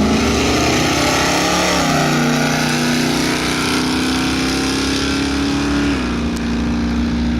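A car engine runs loud under power. Its pitch climbs, drops about two seconds in, holds steady, and steps down slightly again near the end.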